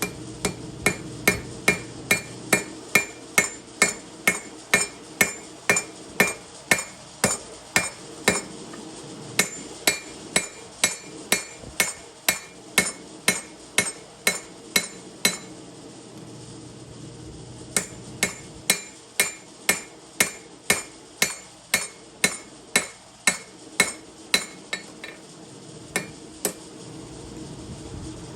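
Hammer blows on an anvil while forging a chef knife blade, about two to three strikes a second, each with a bright metallic ring. The hammering breaks off for about two seconds midway, then resumes and thins out to a stop near the end.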